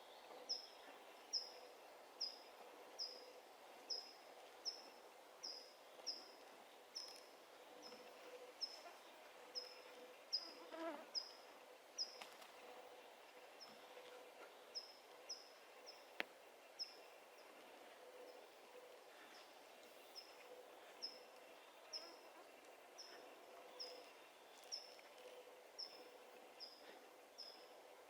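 A songbird repeating one short, high, slightly falling note over and over, about one every three-quarters of a second, with one brief pause partway through. Beneath it is a faint hum, like an insect buzzing.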